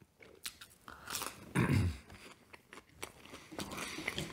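Close-miked chewing of a McDonald's Spicy Habanero chicken sandwich: wet mouth clicks and soft crunches, with a short low hum from the eater about one and a half seconds in.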